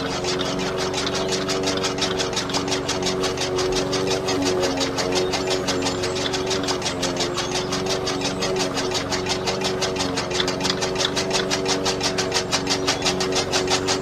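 The small motor of a home-built mini tractor running steadily with a whine, overlaid by a fast, even clicking from its moving parts.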